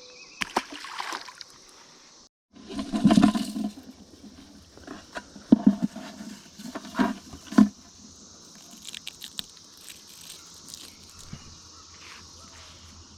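Steady high drone of a Brood X periodical cicada chorus, with a splash of water about three seconds in and a few sharp knocks and clicks after it.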